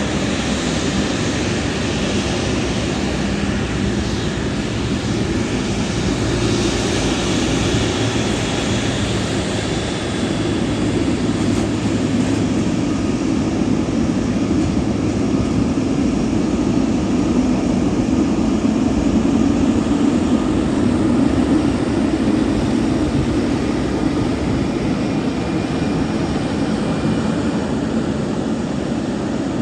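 Jet airliner engines: a loud, steady rush of noise, heaviest in the low range, that swells a little past the middle.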